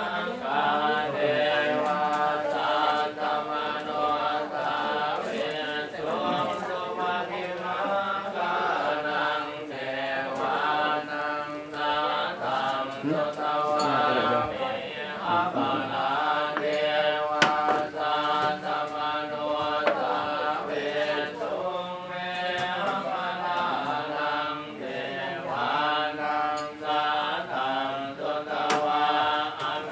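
Buddhist chanting, several voices reciting together in a steady, near-monotone drone without pause.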